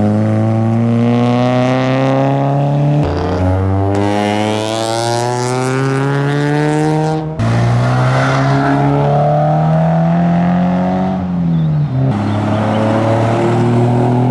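Modified car engine pulling away under load, its pitch climbing steadily and dropping back sharply three times, about three, seven and twelve seconds in.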